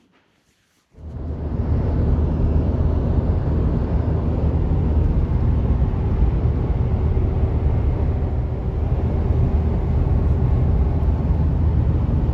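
Steady low rumble of a vehicle driving at road speed, engine and tyre noise, heard from inside the vehicle. It cuts in suddenly about a second in.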